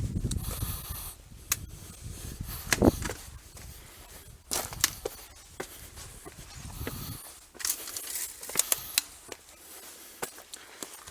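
Footsteps on gravel and rock: irregular scrapes and sharp clicks of stones shifting underfoot, with a low rumble that stops about seven seconds in.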